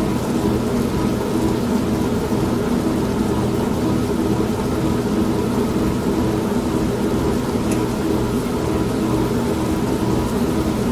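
Old washing machine running with a steady motor hum, mixed with steady rain and thunder.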